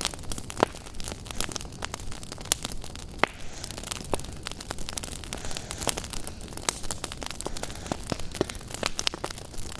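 Wood fire in a fireplace crackling, with many sharp irregular pops and snaps, several a second, over a low steady rumble.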